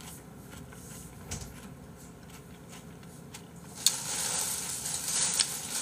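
Close-miked eating sounds of raw tomato slices being chewed, soft wet mouth noises and faint clicks; about four seconds in a louder steady hiss comes in.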